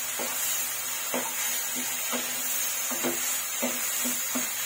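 Spiced onion-tomato masala sizzling in oil in a pan, stirred with a wooden spatula that scrapes and knocks against the pan in repeated strokes, a little under twice a second. The masala is at the end of frying, with the oil separating from it.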